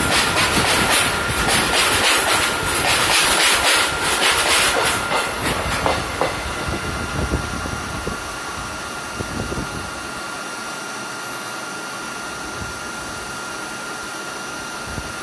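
A long freight train of open steel wagons rattling past close by, with the clickety-clack of wheels over rail joints. The clatter thins out about six seconds in as the last vehicle passes, leaving a steady hiss.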